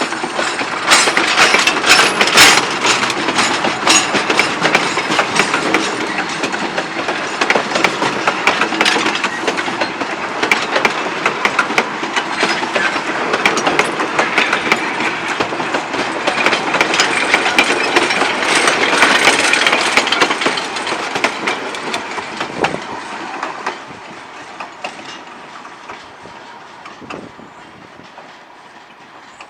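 Durango & Silverton narrow-gauge logging train of empty log cars rolling past, steel wheels clicking over the rail joints in a dense clatter. It fades away during the last few seconds as the train draws off.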